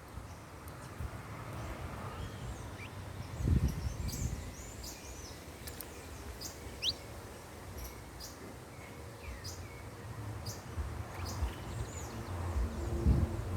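Many small birds chirping at a feeding spot: a steady scatter of short, high chirps and a few quick whistled notes. Low rumbles swell twice, a few seconds in and near the end.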